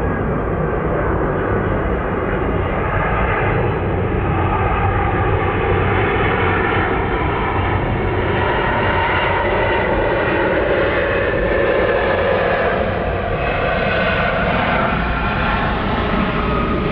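Widebody jet airliner's engines running loud and steady: a continuous rush of jet noise with faint tones that shift slowly in pitch.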